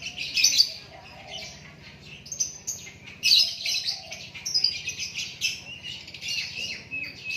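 A small songbird singing a fast run of chirps and trills in bursts, high-pitched and busy, getting louder and denser about three seconds in. A fainter, lower warble sounds under it now and then.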